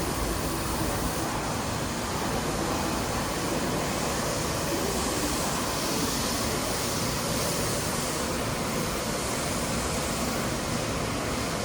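Steady rushing noise of a train running, even throughout with a slight swell in the hiss around the middle.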